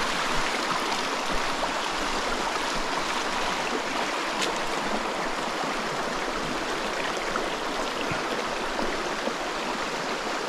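Small mountain stream running over slate rock: a steady rush of flowing water, with a few faint clicks.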